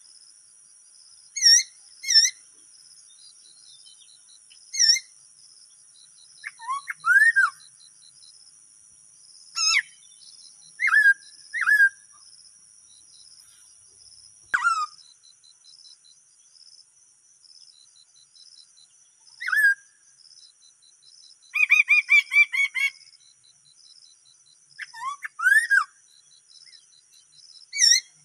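A perched bird calling in short upward-sliding whistles, singly or in quick pairs every few seconds, with one longer stuttering run of notes about three quarters of the way through. A steady high insect buzz goes on behind it.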